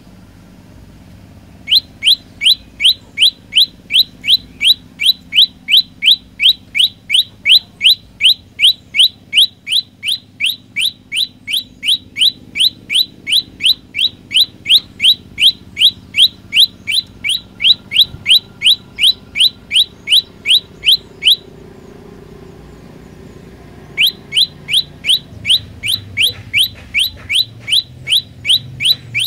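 Olive-backed tailorbird singing a long series of sharp, rising chirps at about three a second; the series breaks off about 21 seconds in and starts again a few seconds later.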